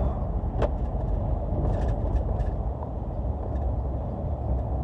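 A car driving: a steady low rumble of engine and road noise, with a sharp click about half a second in and a few faint taps around two seconds in.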